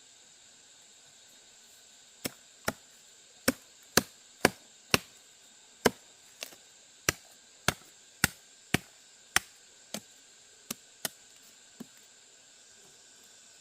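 Repeated chopping with a blade, about seventeen sharp strikes at roughly two a second, starting about two seconds in and stopping near the end. Under it runs a steady high drone of insects.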